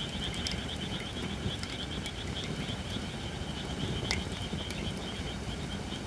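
Holly firewood burning on a fire pit, with a few sharp crackling pops over a low steady rumble, the loudest pop about four seconds in. A rapid, pulsing high chirring chorus runs steadily behind it.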